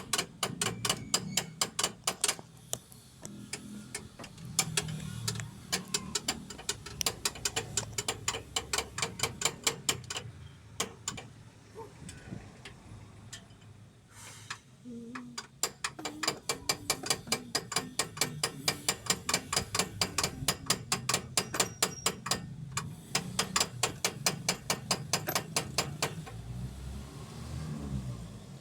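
Hand ratchet wrench clicking in quick runs of about five clicks a second, with pauses between the runs.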